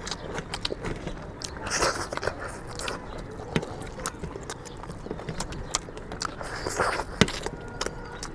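Eating sounds of chicken curry and rice: chewing and wet mouth smacks, with scattered small clicks and a couple of brief rustling swishes.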